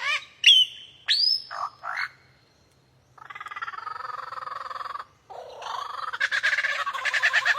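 Bird calls: a few short, sweeping calls, then a rapid pulsed trill from about three seconds in, and after a short break a faster trilling chatter that grows louder near the end.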